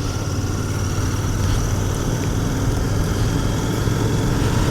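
Royal Enfield Continental GT 650's parallel-twin engine running steadily under way, heard through its stock exhaust.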